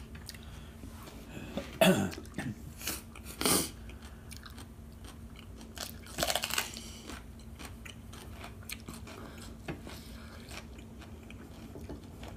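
Raw jalapeño peppers being bitten and chewed close to the microphone: sharp crunches around two to four seconds in and another cluster about six seconds in, then softer chewing.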